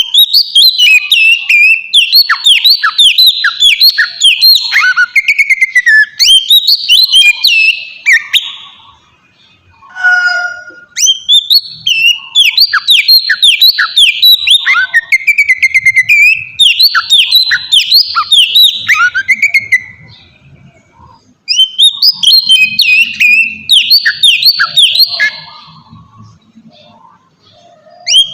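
Oriental magpie-robin singing loud, fast phrases of repeated whistled notes that slur downward, each phrase several seconds long, with short pauses between.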